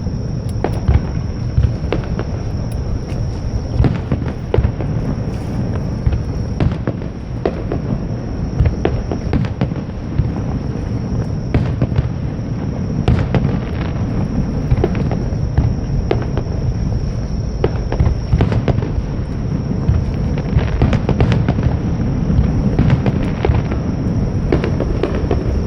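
Fireworks display: aerial shells bursting in a continuous barrage, deep booms running together with many sharp cracks throughout.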